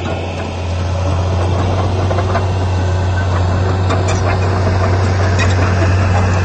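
Heavy diesel engine of earthmoving equipment running steadily with a strong low drone, with scattered light clanks over it.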